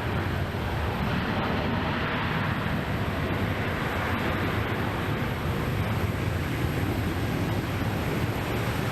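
Jet airliner engines making a steady, even rumble with no change in level.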